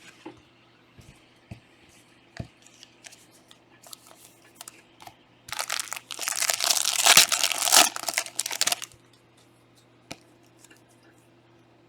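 A trading-card pack wrapper being torn open and crinkled: a loud burst of tearing and crackling starts about five and a half seconds in and lasts some three seconds. Light taps and clicks of cards being handled come before and after it.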